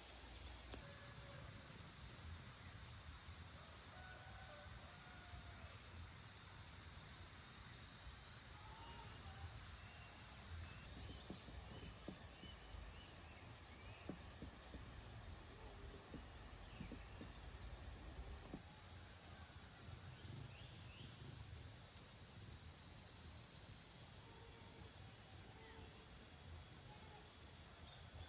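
Insects droning steadily with one unbroken high buzz, with a few short high chirps over it and a low rumble of wind or handling noise underneath.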